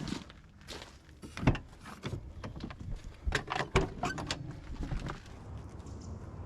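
Irregular knocks and clatters of gear being handled, with sharp ones about a second and a half in and a quick run of them between three and four seconds in.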